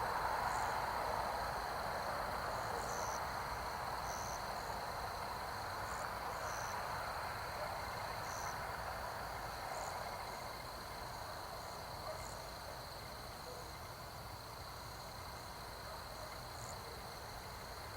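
Insects trilling steadily on one high note, with short, higher chirps every second or two, over a broad hiss that slowly fades.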